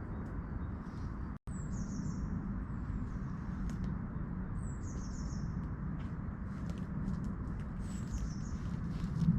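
A songbird calling three times, each a short high call a few seconds apart, over a steady low rushing background of outdoor ambience.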